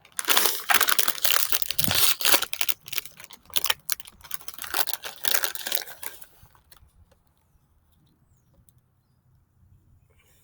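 A snack packet crinkling and tearing as it is opened and handled. It stops about six seconds in, leaving only a few faint clicks.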